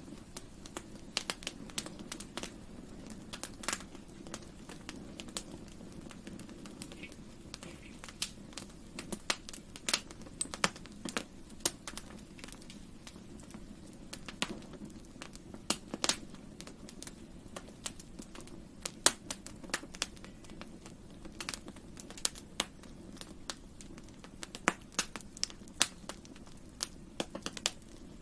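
Campfire burning, wood crackling with frequent irregular sharp pops over a steady low rush of the flames.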